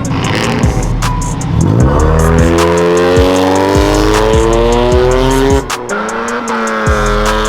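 Car engine revved hard and held high during a burnout, its pitch climbing for several seconds, dropping sharply about five and a half seconds in, then rising again, with tyre squeal.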